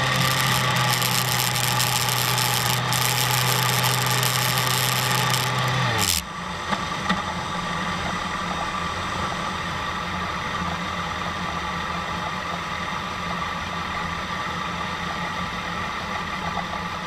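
BMW S1000RR inline-four engine idling steadily, then switched off about six seconds in, its note sinking briefly as it dies. A couple of clicks follow, then a quieter steady engine hum from elsewhere.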